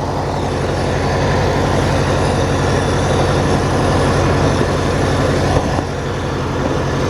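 Riding lawn tractor's small gasoline engine running steadily under load as the tractor drives in high range, held short of full speed by a faulty throttle cable. There is a brief dip in level about five and a half seconds in.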